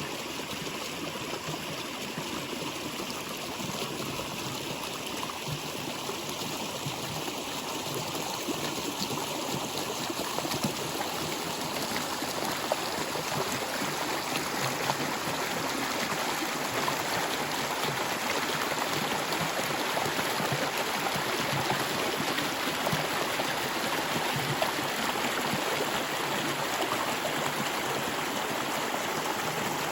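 A stream flowing over rocks: a steady rushing and babbling of water that grows a little louder and fuller about ten seconds in.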